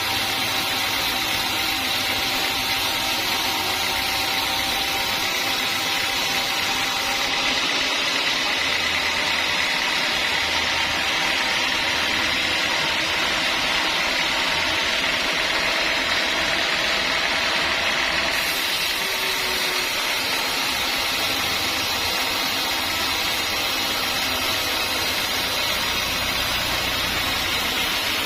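Sawmill saw running steadily as it cuts through a large log: a continuous mechanical noise with no breaks or pauses.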